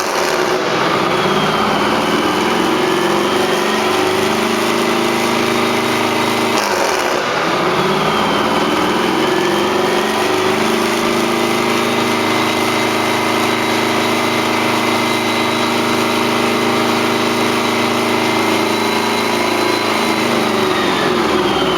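Rebuilt Detroit Diesel 8V92 two-stroke V8 diesel running on a test stand at raised speed. Its pitch dips and climbs back twice, and it starts to fall away near the end.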